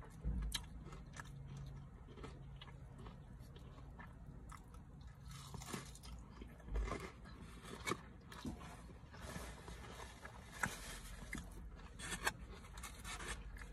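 A person biting and chewing a bacon burger close to the microphone, with irregular clicks of the mouth and food.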